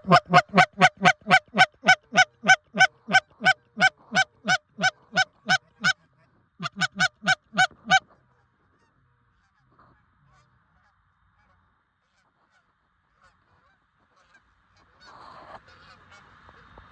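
Goose honks in a fast, even run, about three a second, pausing briefly and stopping about halfway through. This is the calling used to bring a flock of geese in to the decoys.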